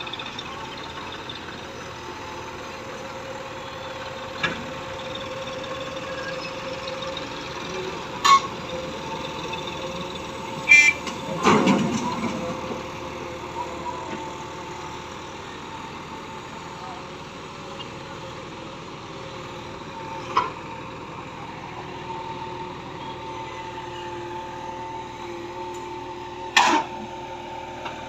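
JCB backhoe loader's diesel engine running steadily while digging, with a handful of sharp knocks from the digging gear, the loudest about eleven seconds in.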